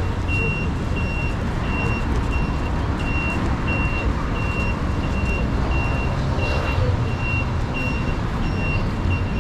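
An electronic warning beeper sounding a steady high beep about twice a second, over the low rumble of city traffic.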